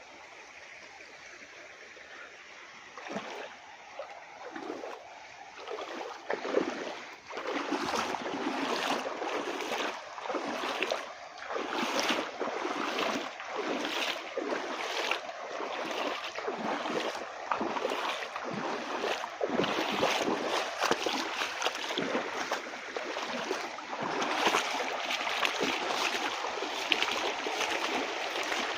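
Stream water flowing and splashing, growing louder over the first several seconds and then running on with irregular splashes.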